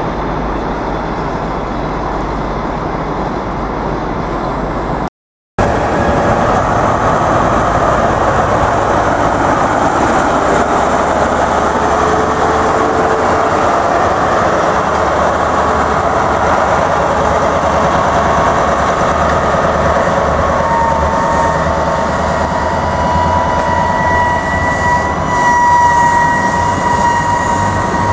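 A rail vehicle running on the track, cut off abruptly about five seconds in. Then a High Speed Train passes through: the Class 43 diesel power car, then the Mk3 coaches rolling over the rails, with a steady high tone that strengthens near the end.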